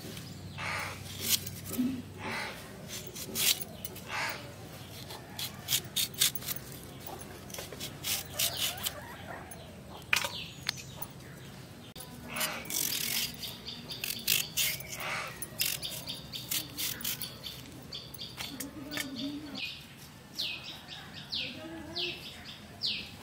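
Peeled forest potatoes (wild yam, bon alu) being cut up with a blade: a long series of short sharp cutting clicks at irregular intervals. Birds chirp in the background, with a run of short falling chirps near the end.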